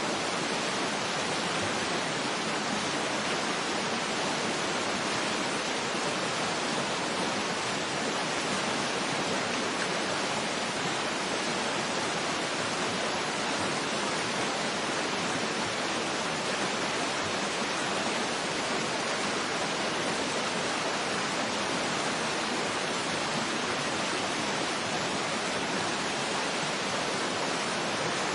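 Waterfall rushing steadily: an even, unbroken hiss of falling water with no changes.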